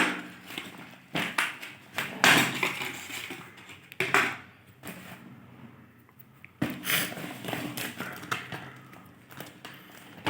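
Toy car packaging being opened by hand: irregular crinkling, tearing and tapping of the box and its wrapping. There is a quieter stretch in the middle.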